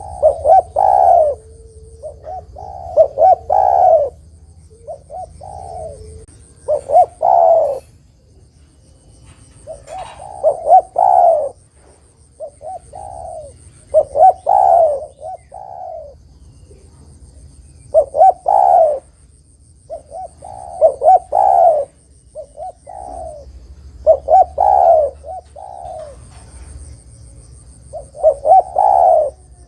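Spotted dove (derkuku/tekukur) cooing over and over: phrases of several rounded notes, each phrase a second or two long, repeated every few seconds. It is the dove's calling song, used as a lure call to make other doves answer.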